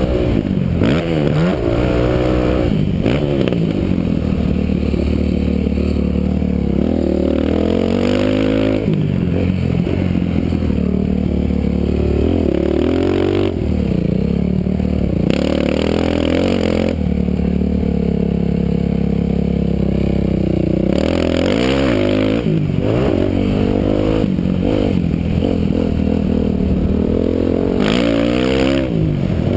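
Dirt bike engine heard from a helmet camera, revving up and dropping back over and over as the rider works the throttle and gears around a motocross track. Several stretches of rushing noise come in over it.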